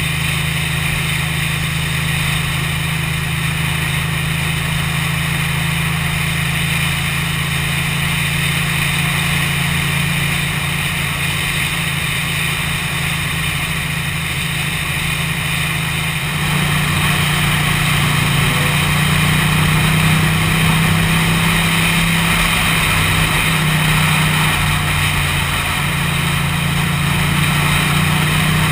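Ducati motorcycle engine running steadily under way, with wind hiss. About two thirds of the way through it steps up in pitch and gets a little louder as the bike speeds up.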